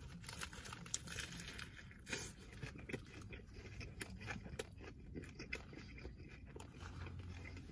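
Biting into and chewing a Teen Burger topped with onion rings: a run of small crunches and wet mouth clicks, close to the microphone.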